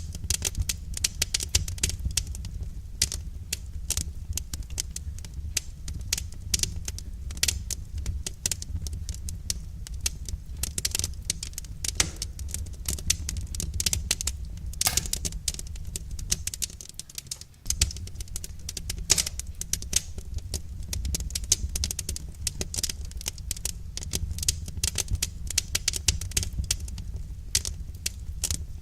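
Wood fire crackling: a dense, irregular run of sharp snaps and pops over a steady low rumble, thinning briefly a little past the middle.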